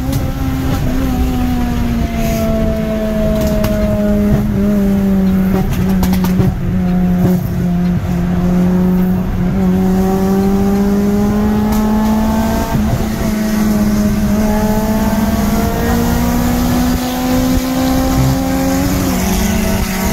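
Car engine running hard at high revs, heard from inside the cabin: a steady, loud note with a few brief breaks and small shifts in pitch.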